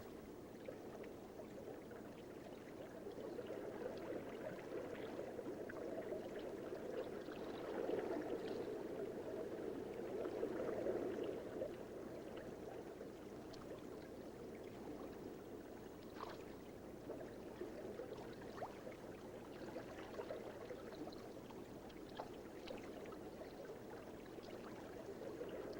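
Soft, steady sound of moving water, a little louder a third of the way in, with a few faint ticks and drips.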